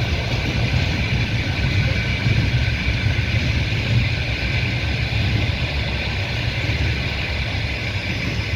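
Passenger train running, heard from inside the carriage: a steady rumble of the wheels on the rails.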